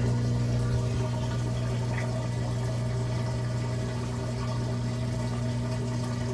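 Maytag Bravo washer's drain pump running with a steady hum while water rushes through it.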